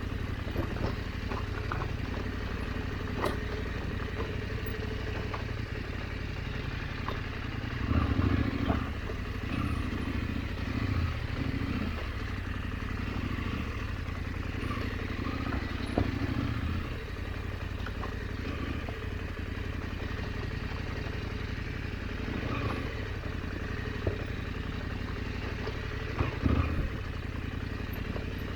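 KTM 890 Adventure's parallel-twin engine running at low revs on a trail, opened up in several short bursts near the middle and near the end. Occasional sharp clacks sound between them.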